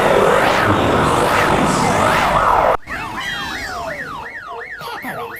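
Cartoon police car siren wailing up and down, many overlapping copies stacked into a dense, loud wall of sound. About three seconds in it cuts off abruptly to a quieter, faster siren wail sweeping up and down about three times a second.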